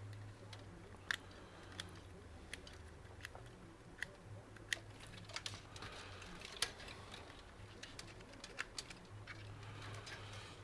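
Scattered light clicks and taps of PC cables and their plastic connectors being handled and sorted, over a faint low hum.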